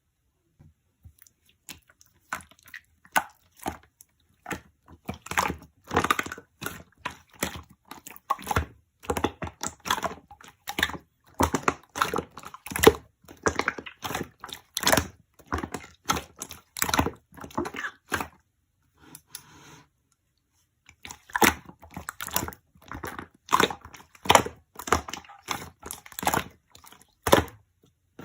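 Slime being kneaded and pressed by hand, giving a run of sharp, irregular crackling pops and squishes, with a brief pause about two-thirds of the way through.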